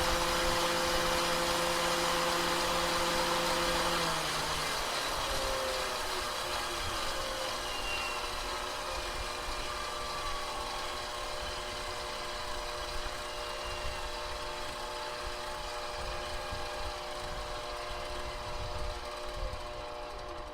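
KitchenAid Professional 6000 HD stand mixer's DC motor running at top speed with a steady whine. About four seconds in, its pitch drops and slides lower as the motor slows, and it runs on a little quieter.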